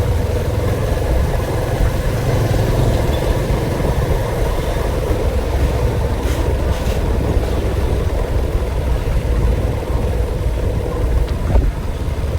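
A vehicle engine running steadily under a low rumble, with a steady drone running throughout.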